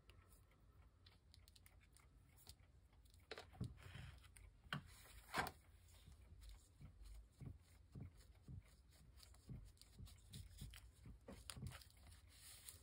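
Faint handling of paper and craft materials: scattered soft rustles and light taps.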